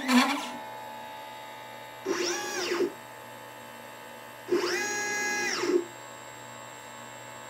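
LitePlacer pick-and-place machine's stepper motors moving the placement head: a brief move right at the start, then two longer moves about 2 and 4.5 seconds in. Each is a whine that rises in pitch, holds, then falls as the motors speed up and slow down, over a steady hum.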